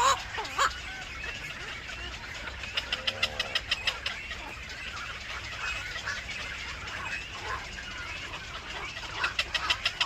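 Birds calling around a nest with chirps throughout and two quick runs of sharp, rapidly repeated chips, one about three seconds in and one near the end. A short lower call sounds about three seconds in.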